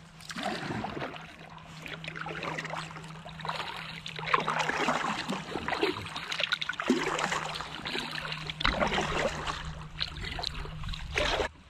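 Kayak paddle strokes splashing in river water, with water trickling off the blades, swelling and fading every second or two.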